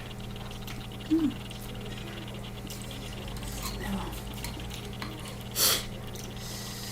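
Eating ramen noodles: a short slurp or sniff about five and a half seconds in, and a brief pitched mouth or throat sound about a second in, over a steady low hum.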